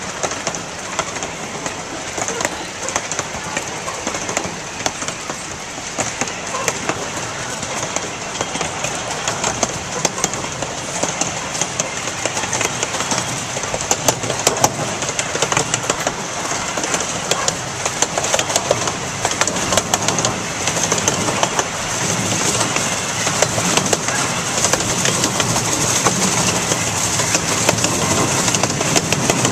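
Narrow-gauge park train running, heard from an open passenger car: a steady rolling rumble from wheels on rail, with frequent rapid clicks throughout. It gets slightly louder in the second half.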